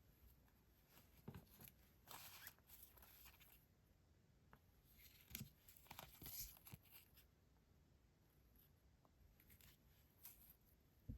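Paper stationery being handled: faint rustling and crinkling in short spells, with a soft thump near the end.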